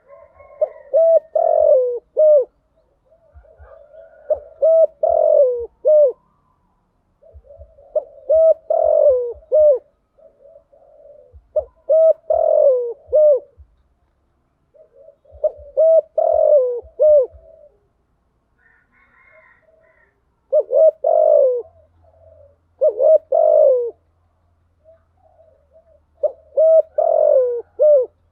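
Spotted dove cooing its repeated song, eight phrases in a row, one about every three to four seconds. This is a decoy bird's call, used to lure wild spotted doves.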